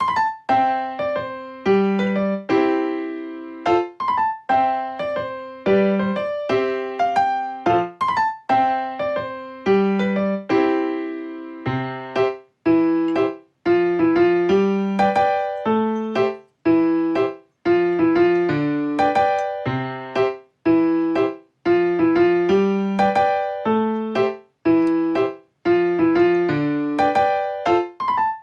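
Background music: a gentle electric piano tune of struck notes that ring and fade, played in an even rhythm.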